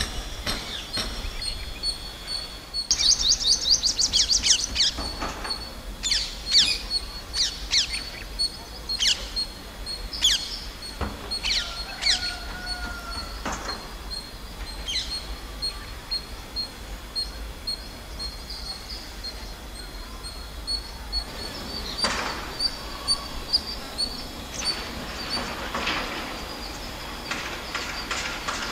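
Birds chirping: repeated short, high calls that sweep downward, with a quick run of chirps about three seconds in and scattered calls after, over a faint low rumble.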